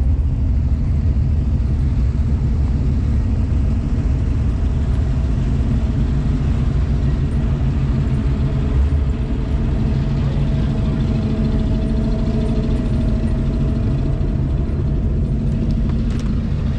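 Car engine running at low speed close by, a steady low rumble with an even hum over it.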